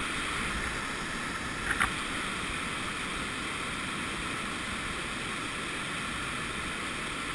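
Steady rushing of river water in whitewater rapids around a kayak, with one short sharp knock just under two seconds in.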